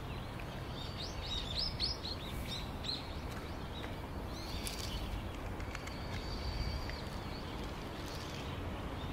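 Outdoor ambience: a steady low background rumble, with a bird chirping in a quick run of short calls a little over a second in and again faintly later. A few light clicks of hands handling a metal jar lid and glass spice tubes.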